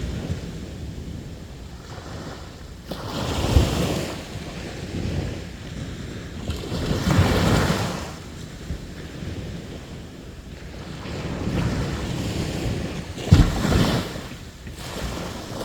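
Sea waves breaking on the shore, surging and washing back every few seconds, with sharper crashes about three and a half seconds in and again near the end.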